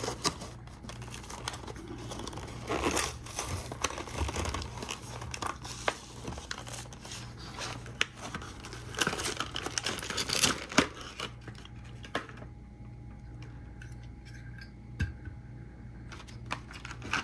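Diecast toy-car packaging being opened by hand: plastic and cardboard crinkling and tearing, with irregular sharp clicks and snips. It goes quieter about twelve seconds in, leaving a single click.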